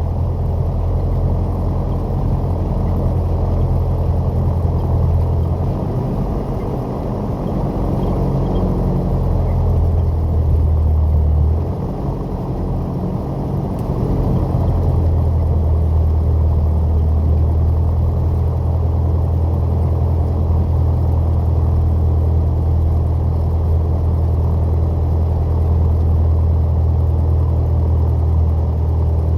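Single-engine light aircraft's piston engine and propeller droning steadily, muffled as heard inside the cabin. The tone shifts briefly about a quarter of the way in and again near the middle.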